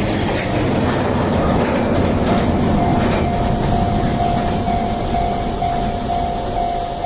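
A train running past over the level crossing, a loud steady rumble with wheel clicks. About two seconds in, a level crossing warning bell starts up, pulsing about twice a second and growing louder.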